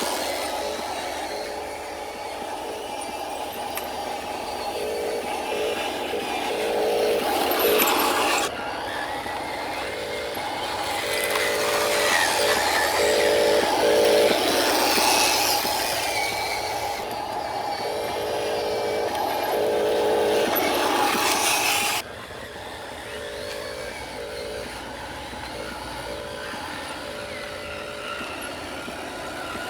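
Radio-controlled model truck driving: a steady mechanical running noise, cut off abruptly twice and changing its character at each cut.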